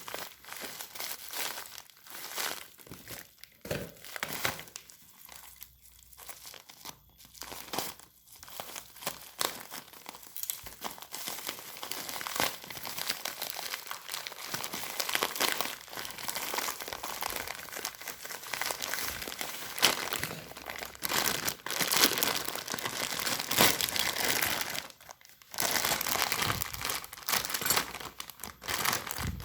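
Plastic packaging crinkling and rustling in irregular handfuls as a boxed motorcycle underbone is unwrapped, with quieter pauses twice.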